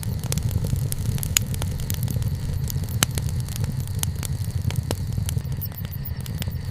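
Wood campfire burning: a steady low rumble with scattered sharp crackles and pops, a couple of louder pops in the first half.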